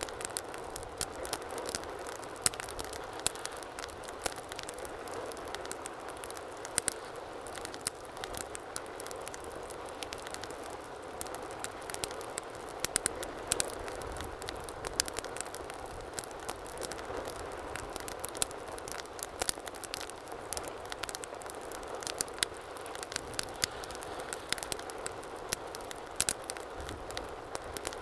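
Wood fire burning in a fireplace: a steady hiss of flames with frequent sharp, irregular crackles and pops.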